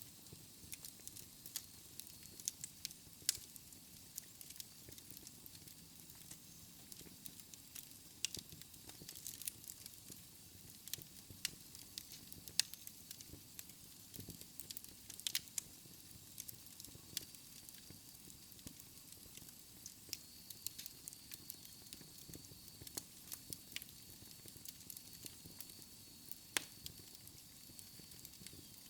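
Wood fire burning in a fireplace, crackling with irregular sharp pops of varied loudness over a faint steady hiss.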